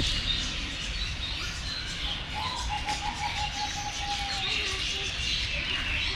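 Several birds calling and chirping together. A little past the middle, one bird gives a quick run of about ten repeated lower notes.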